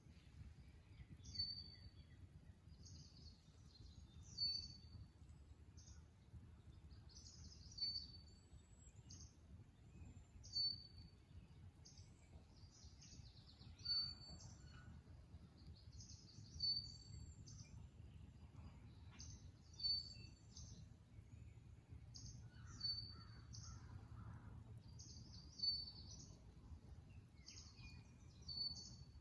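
Marsh birdsong: one bird repeats the same short, high song about every three seconds, with other birds calling more faintly around it, over a faint low steady rumble.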